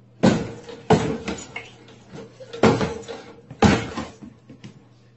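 Four loud, sharp knocks or bangs, each with a short ring-out, spread unevenly over a few seconds.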